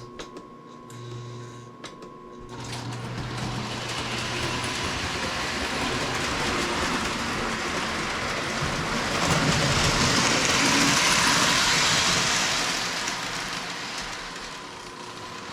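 Lionel 736 Berkshire O-gauge toy train running around the track, its motor and wheels rattling on the rails, growing louder as it comes close about ten seconds in and then fading as it moves away.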